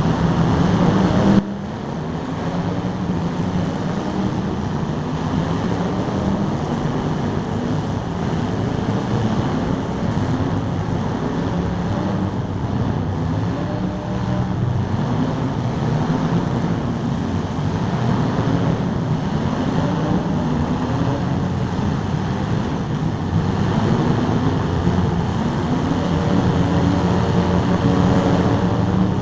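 Several demolition derby cars' engines running and revving at once, their pitches rising and falling over one another in a steady din. The level drops suddenly about a second and a half in.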